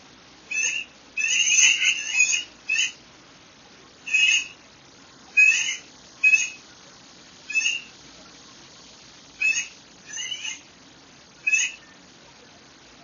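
A bird calling in short, sharp notes, about a dozen of them, some single and some in quick clusters, spaced every second or so over a faint steady background hiss.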